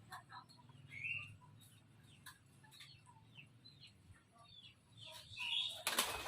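Scattered short, faint bird chirps, several falling in pitch, with a loud rustling burst near the end.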